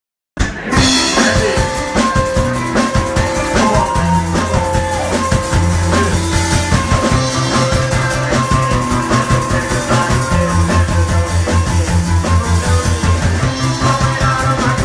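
Rock band playing live with drum kit, bass and electric guitar. It cuts in abruptly after a brief moment of silence at the very start.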